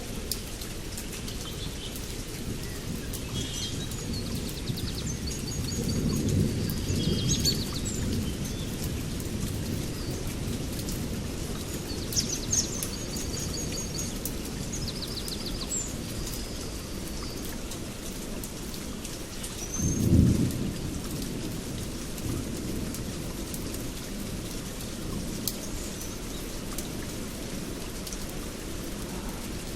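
Steady rain with low rumbles of thunder, a drawn-out one about six seconds in and a shorter, louder one about twenty seconds in. Birds chirp in short phrases in the background, mostly in the first half.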